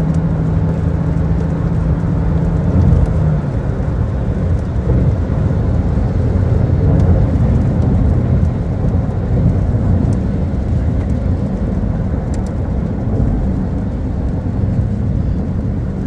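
Car driving on a rain-soaked road: steady low rumble of tyres and engine, with a steady engine hum that fades out about three seconds in.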